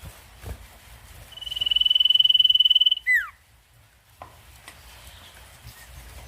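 Sirtu (kunyit kecil) songbird singing: one long, fast trill held on a single high pitch that swells in loudness, then breaks off into a quick downward-slurred note.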